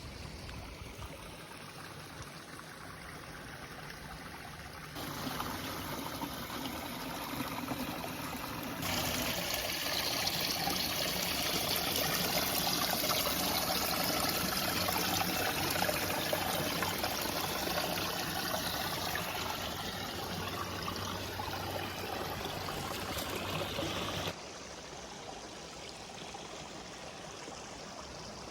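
Running water of a stream, a steady rushing noise. It gets abruptly louder twice early on, then drops suddenly near the end.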